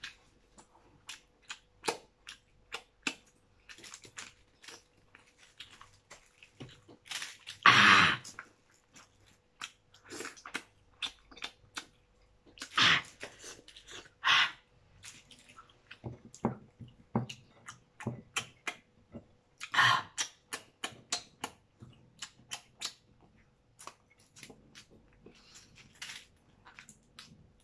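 Eating sounds of crab and lobster taken by hand: irregular wet chewing and lip-smacking clicks, with a few louder, longer noisy mouth sounds spread through.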